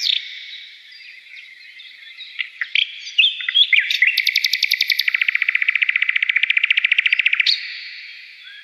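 Small songbirds chirping, with short scattered calls, then a fast, even trill of about a dozen notes a second from about four seconds in that stops abruptly about three and a half seconds later.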